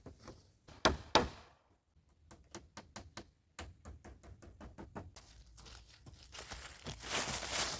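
Two loud knocks about a third of a second apart, about a second in, then a quick run of lighter taps and clicks, with a steady noise building up near the end.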